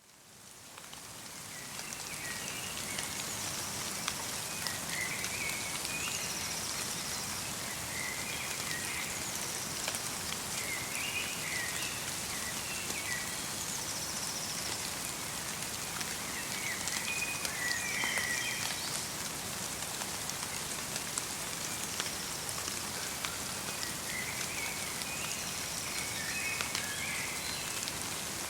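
Steady patter of light rain mixed with snow on a forest, fading in over the first couple of seconds. Small birds call in short chirping phrases every few seconds over it.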